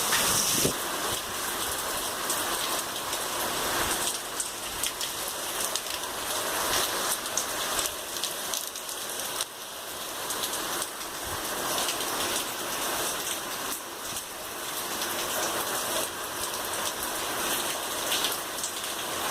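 Rain falling steadily: a dense hiss of many drops striking surfaces, with fine individual drop ticks throughout.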